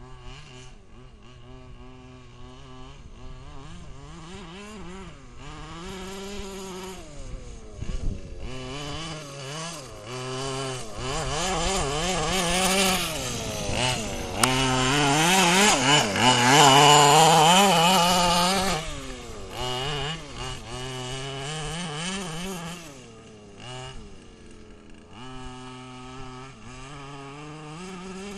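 Small petrol two-stroke engine of an FG Marder large-scale RC car running through a home-made exhaust pipe, revved up and down again and again. It is loudest and highest-pitched for several seconds around the middle, then settles back to lower revs.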